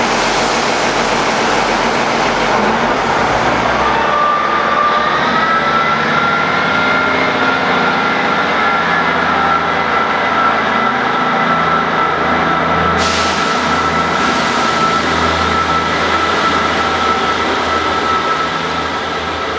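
Passenger train pulling out along the platform, running loud and steady, with a high whine that comes in about four seconds in, rises slightly, then holds.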